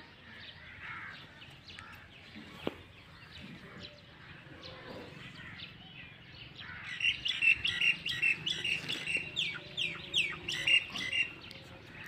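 Small birds chirping in quick, downward-sweeping notes, faint at first, then busy and louder from about seven seconds in until about eleven. There is one sharp click about three seconds in.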